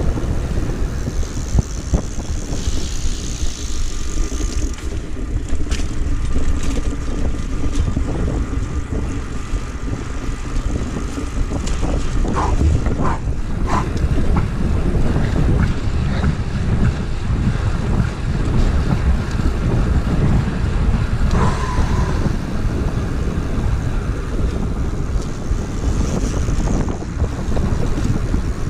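Wind buffeting the microphone of a camera carried on a moving bicycle, a steady low rumble, with a few short high squeaks about halfway through and again later.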